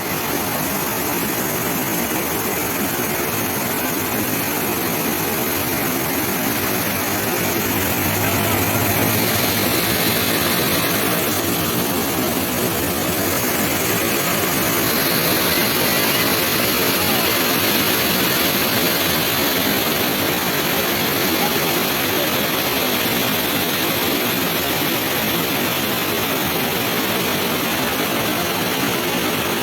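Waterfall in heavy flow after heavy rain: a loud, steady rush of falling water.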